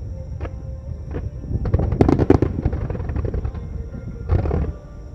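Aerial fireworks shells bursting in a starmine barrage, one sharp bang after another. About two seconds in comes a rapid cluster of crackling reports, and another burst follows near the end.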